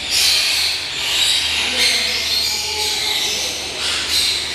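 Shrill, overlapping chattering and screeching of caged birds, coming in short waves, over a low steady hum.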